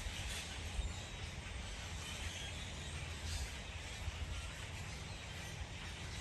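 Steady outdoor background noise: a constant low rumble under an even hiss.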